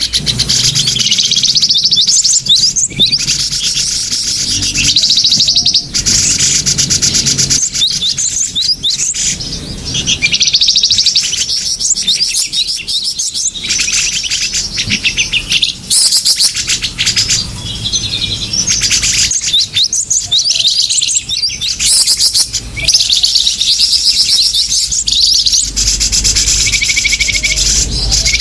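Small songbirds chirping and trilling in fast, overlapping runs of high notes with short pauses, a recorded lure call (suara pikat) meant to draw small birds in.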